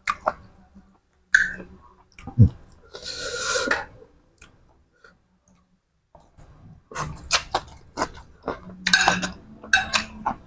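A person chewing food close to the microphone, with wet smacks and crunching clicks. The chewing pauses for a couple of seconds in the middle, then resumes busier.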